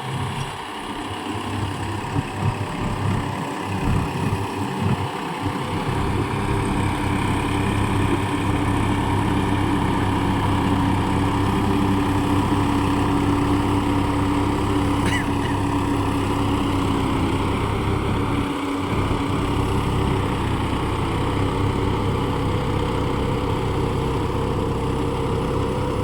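Massey Ferguson 254 Dynatrack 4WD tractor's diesel engine running steadily, getting louder over the first several seconds and then holding an even note, with a brief high squeak about halfway through.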